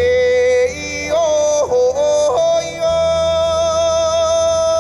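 A man singing a traditional tribal song live with wordless vocables. He holds a high note, slides and breaks between notes, then sustains one long steady higher note through the second half, over low instrumental accompaniment.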